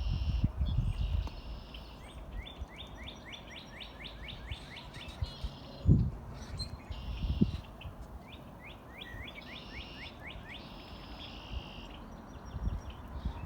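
A songbird singing, repeating a phrase of buzzy notes followed by a quick run of rising chirps, about twice over. Low rumbling near the start and two low thumps around the middle.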